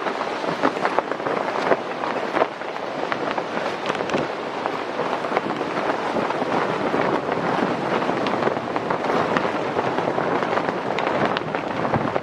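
Storm wind and rain: a steady rush thick with dense crackling and pattering of small impacts.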